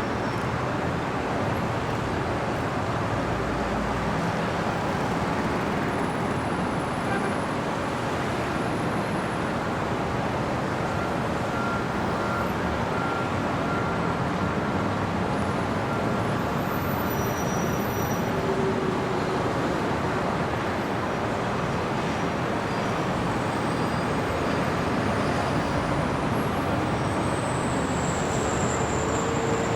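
Steady city street traffic: a continuous wash of passing cars and other road vehicles, with a faint high whine near the end.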